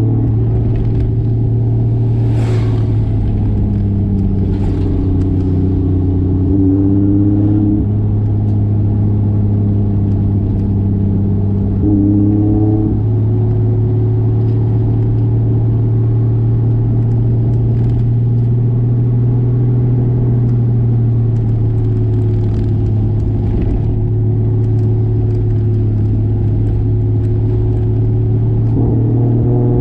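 1995 Toyota Soarer's single-turbo 2JZ straight-six running on the road, its pitch falling and rising several times with the throttle. A short hiss comes about two and a half seconds in.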